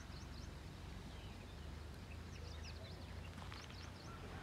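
Small birds chirping in short, quick high calls, in a few scattered bursts over a faint low steady rumble.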